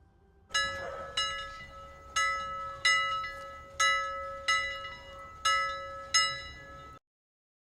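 Timer alarm chime: eight bright bell-like strikes in pairs, each ringing on, then cutting off suddenly. It signals the end of the Pomodoro session.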